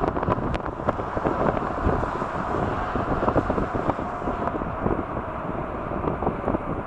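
Strong storm wind buffeting the camera microphone in gusts, a loud rumble with crackling pops.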